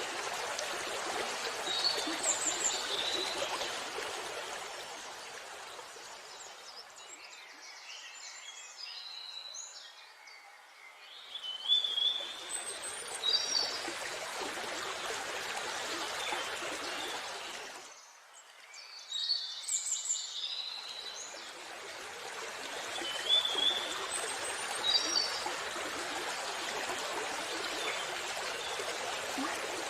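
Steady rush of falling water, thinning out twice for a few seconds before swelling back, with birds chirping in short calls at intervals over it.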